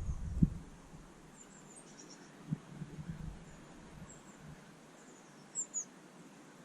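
Small garden birds giving short, high-pitched chirps now and then, two louder ones near the end, with a low rumble at the start.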